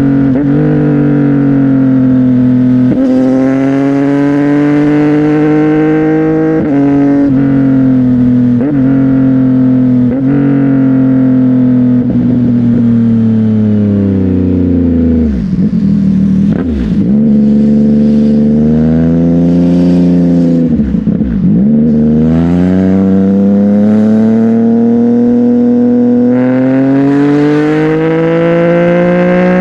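CFMOTO 675NK's 675 cc inline-three engine through a titanium aftermarket exhaust, revving up in short pulls with quick upshifts. The revs fall away twice in the middle with pops on the overrun, then it pulls steadily up through the revs again near the end.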